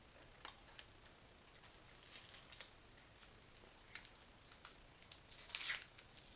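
Near silence with scattered faint clicks and a short rustle near the end, from handling a spoon and packaging while eating.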